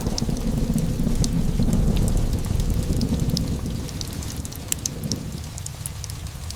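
Rolling thunder rumbling over steady rain, dying away about five seconds in, with scattered small ticks and crackles above the rain hiss.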